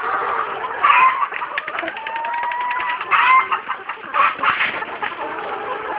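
A flock of laying hens clucking and calling, several birds overlapping, with a quick run of short ticks between about one and a half and two and a half seconds in.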